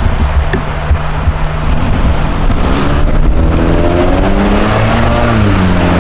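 A road vehicle's engine approaching and driving past, its pitch rising as it nears and dropping sharply as it goes by about five seconds in, over a low steady rumble.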